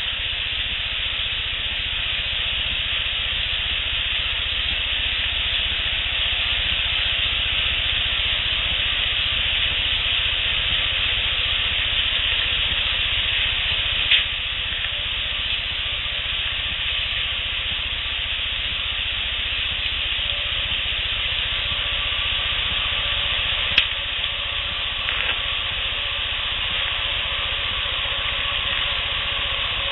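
Steady hiss of an outdoor audio recording, broken by two sharp clicks, one about halfway through and one about four fifths of the way in.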